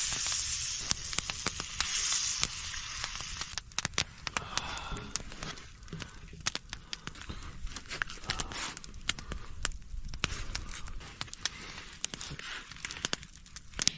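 Food frying on a small skillet over a fire, sizzling for the first couple of seconds and then settling into scattered pops and crackles.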